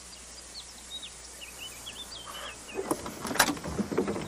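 A bird chirping a quick string of short calls over quiet outdoor ambience. From about three seconds in come a run of knocks and rustling as someone moves about in the vehicle, the loudest knock a little later.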